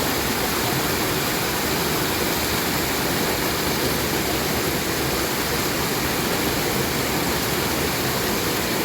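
Steady rush of a stream's falls pouring into a pool.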